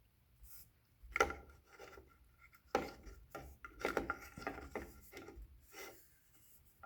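Rough rubbing and scraping strokes, about seven, irregularly spaced, as sticky, gooey broken belt debris is cleaned off the top of a garage door opener's motor and gear housing.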